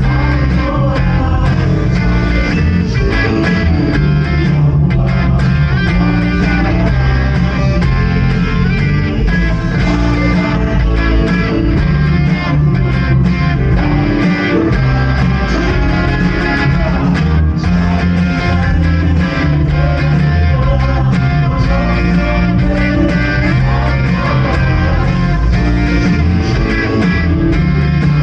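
Live contemporary worship band music, guitars prominent, playing continuously.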